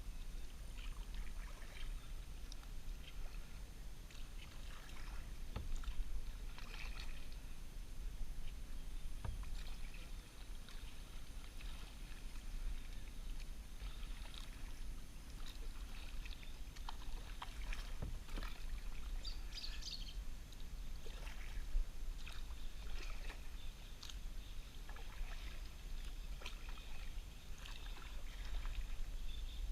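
Kayak paddle strokes dipping into river water, with small irregular splashes and drips, over a steady low rumble.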